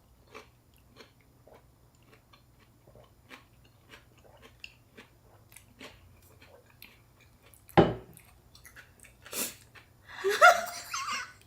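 Close-up chewing of fresh spring rolls made of rice paper, shrimp and raw vegetables: soft, wet mouth clicks and crunches. A single loud knock comes about eight seconds in, and a brief voiced sound comes near the end.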